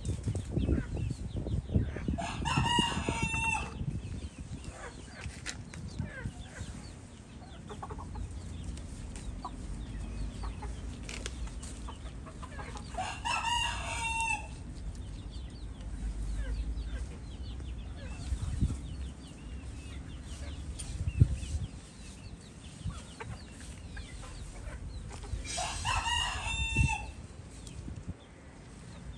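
A rooster crowing three times, about eleven seconds apart, each crow about a second and a half long. Under it run low knocks and scraping, with one sharp knock a little past two-thirds of the way through.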